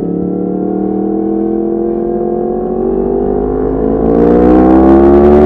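Yamaha MT-10's crossplane inline-four through an Akrapovic exhaust, pulling in gear with its note rising steadily. About four seconds in the throttle opens wider and it gets louder as the revs climb faster.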